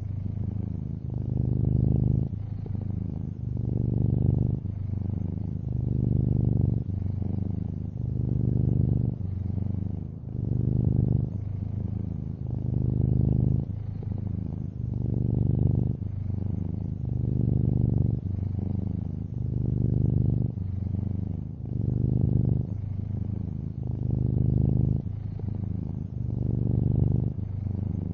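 Long-haired orange tabby cat purring steadily and closely. The purr swells and eases with each breath, about once every two seconds.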